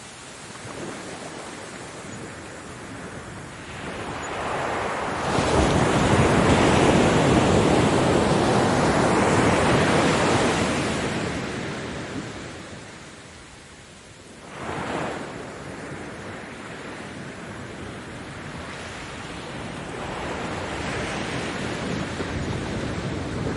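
Ocean waves breaking on a beach: a large wave builds and crashes about five seconds in, its wash fading away over several seconds. A short, smaller surge follows, then a lower, steady hiss of surf that slowly swells again near the end.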